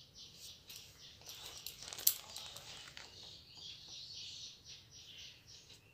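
Small birds chirping rapidly and continuously, a dense high-pitched chatter, with one sharp click about two seconds in.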